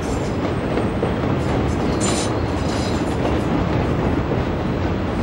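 Suburban electric train running past on the viaduct: a steady rumble of wheels on rails, with a brief high-pitched squeal about two seconds in.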